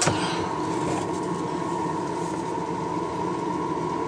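Hobby paint spray booth's exhaust fan running steadily, a constant hum with a steady whine, and a brief click right at the start.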